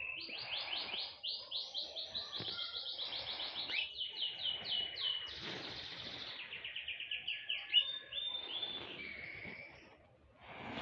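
Small songbirds chirping and singing: fast runs of short, high, downward-sweeping chirps, several a second, mixed with trilled notes, dying away near the end.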